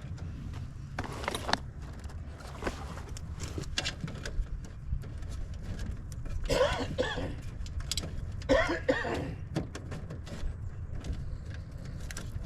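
A person coughing twice, about six and eight and a half seconds in, over a steady low rumble, with scattered small clicks and rattles of hand work on the unit.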